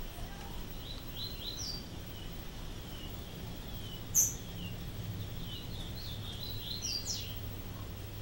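Pet birds chirping in short, scattered twittering calls, with one brief, sharp, very high note about four seconds in that stands out as the loudest sound, over a steady low hum.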